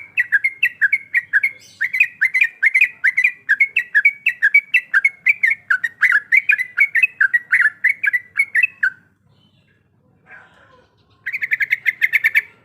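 Yellow-vented bulbul (trucuk) singing a long, fast run of repeated chirping notes, about three or four a second, that stops about nine seconds in. After a brief pause, a shorter, quicker burst of notes comes near the end.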